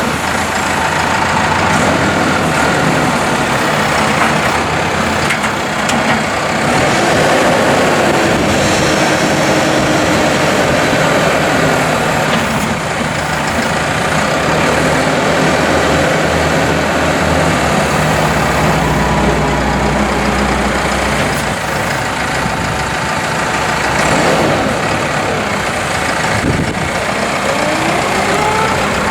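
New Holland T4.95 tractor's diesel engine running, its pitch rising and falling at times.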